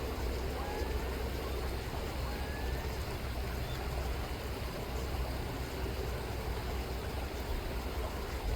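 Chilliwack River water running steadily over a constant low rumble, with a few faint short gull calls in the first few seconds.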